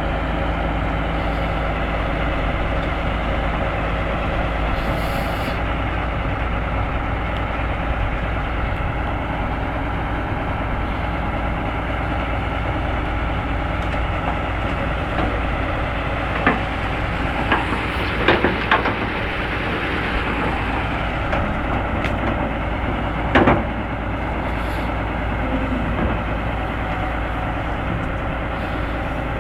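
Heavy diesel machinery, a CAT 325D excavator and a CAT D300E articulated dump truck, running steadily during a recovery pull. A cluster of sharp knocks comes a little past the middle and another a few seconds later.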